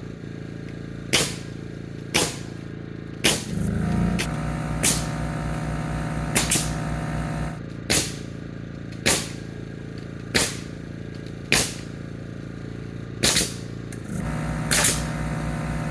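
Pneumatic nail gun firing nails into framing lumber about once a second, each shot a sharp crack. An air compressor starts up about four seconds in, runs for a few seconds, and starts again near the end.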